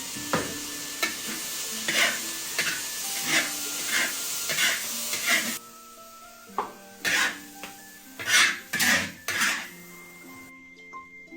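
Metal spatula scraping a wok as eggs are stir-fried in sizzling oil, a stroke every half second or so. About halfway through the sizzle drops away and a few louder scrapes and clanks follow. Background music with held tones plays underneath.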